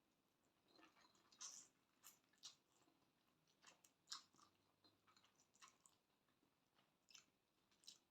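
Faint, irregular mouth sounds of someone chewing a Thai glass noodle salad: soft, wet clicks and smacks, about a dozen spread unevenly.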